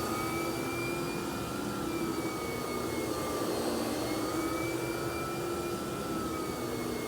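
Vacuum cleaner running steadily with a Vacuflo T21 power nozzle attached, a constant rushing noise under a motor whine that drifts slightly up and down in pitch.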